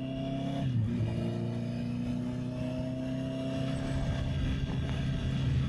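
Honda CB650R inline-four engine under way, dropping in revs at a quick upshift about a second in, then pitch climbing slowly as the bike pulls in the new gear. Wind buffets the microphone underneath.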